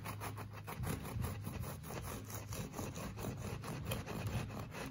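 A knife sawing through a ciabatta loaf in quick, repeated back-and-forth strokes, each stroke a short rasp against the crust.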